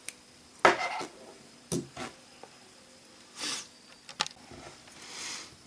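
Scattered small clicks, taps and short scrapes of tools against an iPhone 4's glued-down screen as it is pried loose from its sticky adhesive, with a sharper click about two-thirds of a second in.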